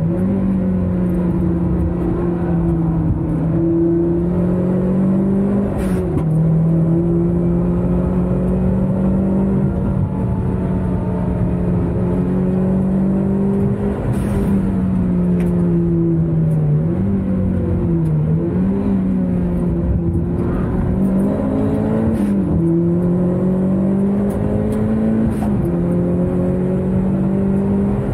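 Car engine pulling hard at speed, heard from inside the cabin, over road and wind noise. Its pitch holds high for long stretches and dips and climbs back several times, at about 6 s and between about 17 and 23 s.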